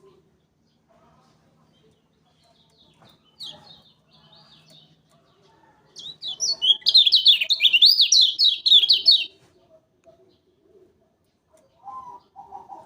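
Kecial kuning (Lombok white-eye) singing: a few faint chirps, then about halfway through a loud three-second burst of fast, rapidly rising and falling high notes. A short, lower-pitched sound follows near the end.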